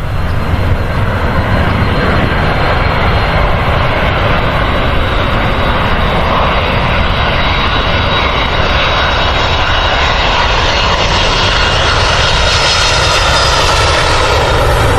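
Airliner's engines running loud and steady: a deep rumble under a dense roar with a thin high whine. The hiss grows brighter over the last few seconds.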